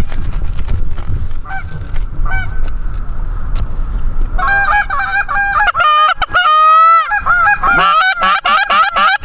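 Goose honking and clucking, at first sparse and faint over a low wind rumble on the microphone. From about four seconds in it turns loud and rapid, with one long drawn-out honk near seven seconds, the calling of a big group of Canada geese setting up to land.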